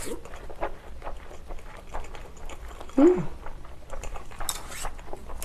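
Close-miked chewing of a mouthful of bánh hoi rice noodles wrapped with grilled pork and lettuce, with many small wet mouth clicks. A short hum falls in pitch about three seconds in, and a brief hiss comes near the end.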